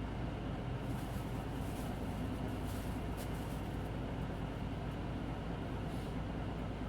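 Hino Blue Ribbon City Hybrid bus's diesel engine running steadily, heard from inside the cabin. A few short rattles or clicks come between about one and three and a half seconds in, and once near the end.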